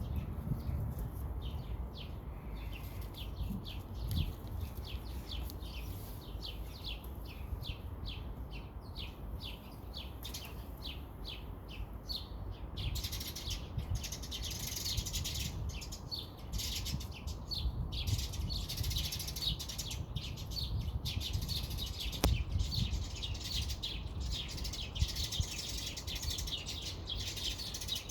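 Birds chirping in short, quick calls repeated about three times a second. From about halfway, a denser, busier chatter of chirps takes over. A low rumble runs underneath, and a single sharp click comes about two-thirds of the way in.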